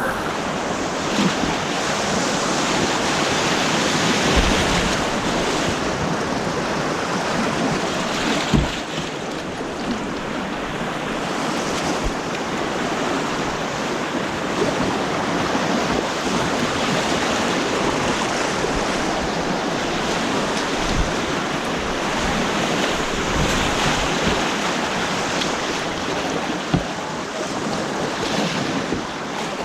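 Steady rushing of white water on an artificial whitewater course, with a few short low knocks against the microphone.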